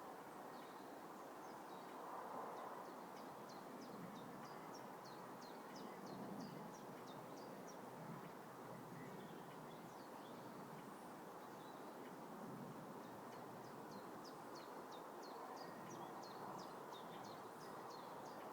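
Faint outdoor ambience: a steady background hum with a small bird singing twice, each song a run of short, high, falling notes lasting a few seconds.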